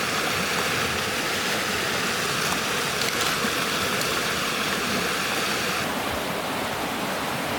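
Steady rush of flowing floodwater, a loud even hiss whose higher part drops away about six seconds in.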